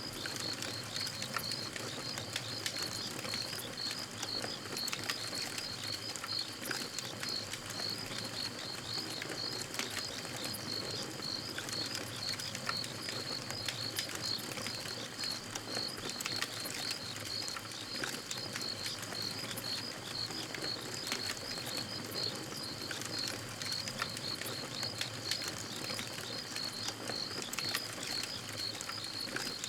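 Campfire burning with frequent small crackles and pops, over a steady rhythmic chirping of night insects such as crickets.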